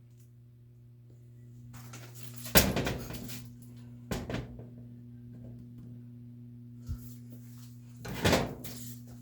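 A steady low hum with four sudden knocks and clatters over it, the loudest about two and a half seconds in and another near the end, like hard parts being knocked and set down.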